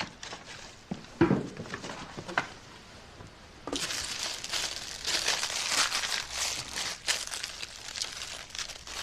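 Food packaging being unwrapped and handled, a dense crinkling that starts a little over a third of the way in, after a few light knocks and rustles.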